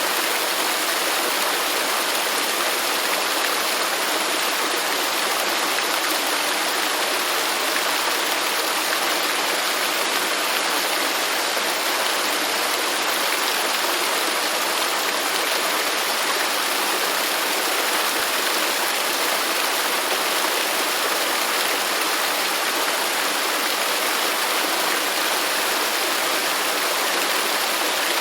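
Waterfall: falling water rushing in a steady, unbroken wash with no change.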